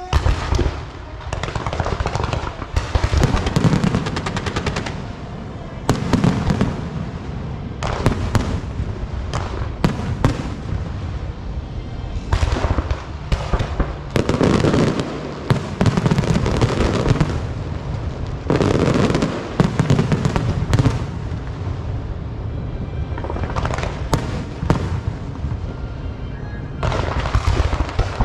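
Fireworks and firecrackers going off without pause: dense crackling with many sharp bangs and low booms.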